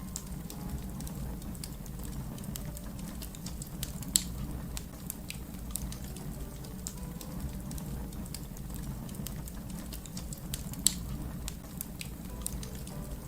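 Fire crackling: irregular sharp snaps and pops over a low steady rumble, with two louder snaps, one about a third of the way in and one near the end.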